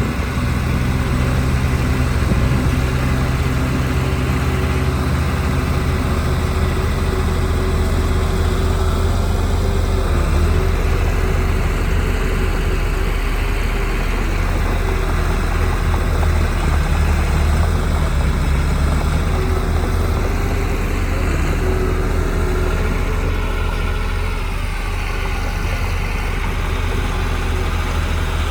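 Heavy diesel engine of earthmoving machinery running steadily, a deep drone with a strong low rumble.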